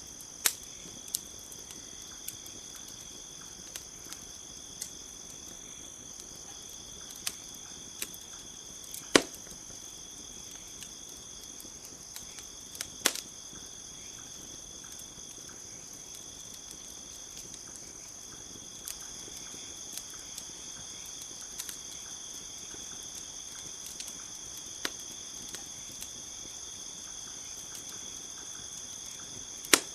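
Campfire crackling, with irregular sharp pops, the loudest a few seconds apart, over a steady high chorus of crickets chirping.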